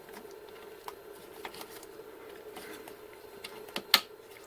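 Small plastic clicks and handling noise of a cable drag chain as a link cover is pressed to snap it shut, with one sharper click about four seconds in, over a steady faint hum.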